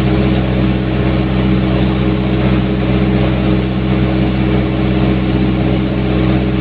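Hyundai backhoe's diesel engine running steadily at an even speed.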